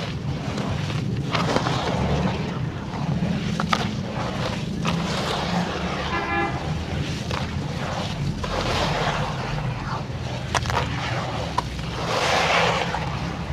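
Charcoal crunching and crumbling, with sharp snaps now and then, over a steady low traffic hum. A car horn toots briefly about six seconds in.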